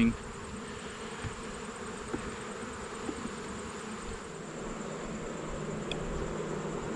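Honeybee colony buzzing steadily from an open hive during an inspection, a continuous hum with a few faint ticks.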